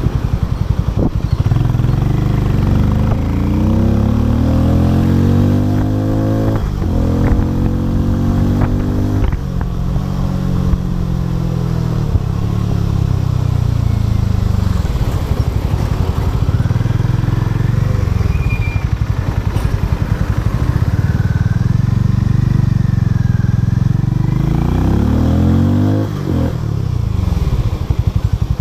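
Harley-Davidson X440's single-cylinder engine running loudly. Its pitch climbs steadily from about 3 to 9 seconds, drops sharply, and climbs again near the end, with a few short clicks along the way.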